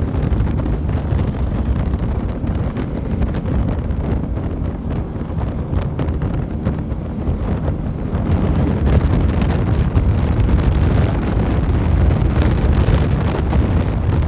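Wind rushing and buffeting over the microphone of a rider on a moving Bajaj Pulsar NS200 motorcycle, with a low rumble from the ride underneath. It grows louder about eight seconds in.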